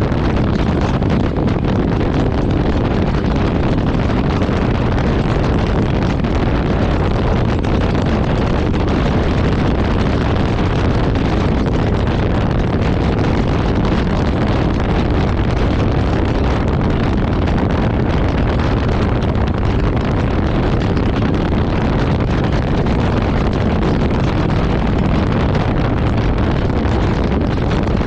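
Steady wind rush buffeting a motorcycle-mounted camera's microphone as a Jawa motorcycle rides along, its engine running underneath.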